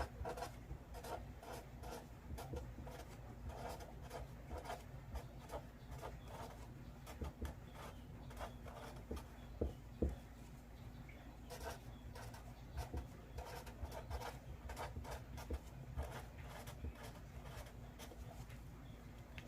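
Faint scratching and tapping of handwriting, irregular pen strokes with a few sharper clicks near the middle, over a steady low hum.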